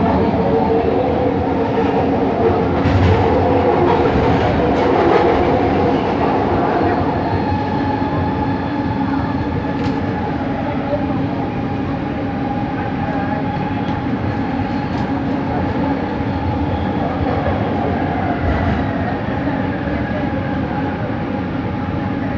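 Bombardier Innovia ART 200 train running, heard from inside the car: steady rail and running noise with several held motor tones from its linear induction motors, a few slow pitch glides, and occasional sharp clicks.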